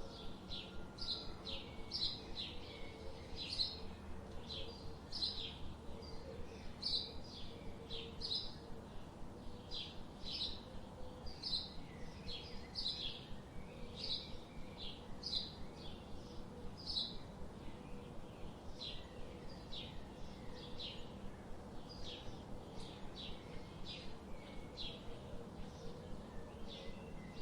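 A bird calling in a steady series of short, high chirps, about two a second, over a faint background of forest ambience.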